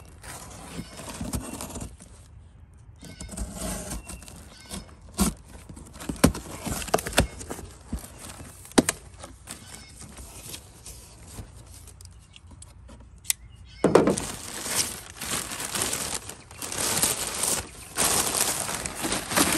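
A package being unboxed: handling noise with scattered sharp clicks and knocks. From about three-quarters of the way in, a run of loud rustling and tearing of packaging.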